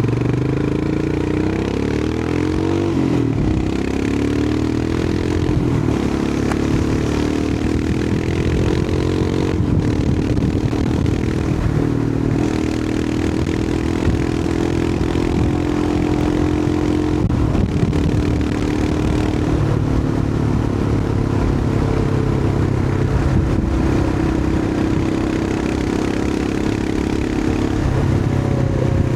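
Royal Enfield Himalayan 411's single-cylinder engine running on the move, its note climbing about two to three seconds in and shifting in pitch a few times with throttle and gear changes. A steady rush of wind noise runs under it.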